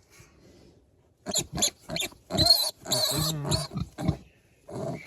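Young piglet squealing while being handled: a run of short, loud, shrill cries starting about a second in, with one more near the end.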